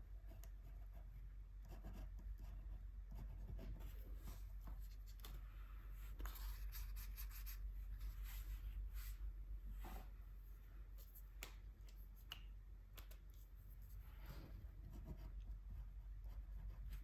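Light strokes on paper at close range during gouache swatching, with scattered small ticks and taps, busiest in the middle.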